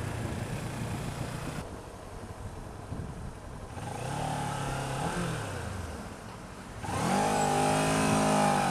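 Motorcycle engine running in traffic with road and wind noise; its pitch rises about four seconds in, then drops, and a louder, steady engine note comes in near the end.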